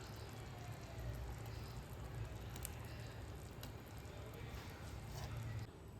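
Kitchen cooking sounds: a steady low hiss and hum with a few light clicks and taps. They cut off abruptly near the end.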